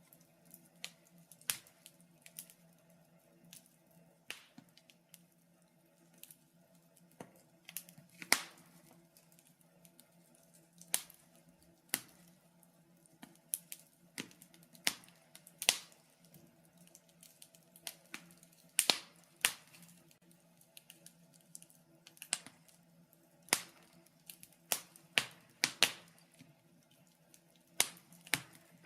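Wood fire in a fireplace crackling: sharp, irregular pops and snaps a second or two apart, some in quick clusters, over a faint steady low hum.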